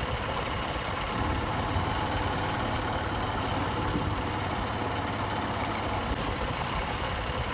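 Motorcycle engine running steadily during a ride, with a constant low hum under a steady rushing noise.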